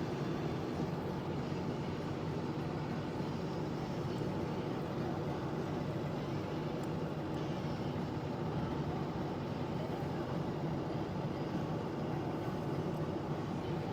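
A steady engine drone with no change in pitch or level.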